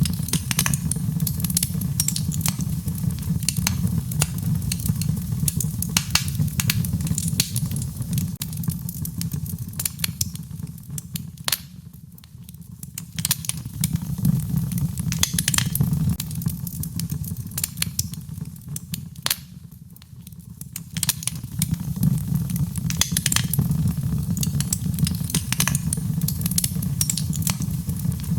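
Wood fire crackling in a fireplace: frequent sharp pops and snaps over a low steady rumble, the whole sound dipping quieter twice midway.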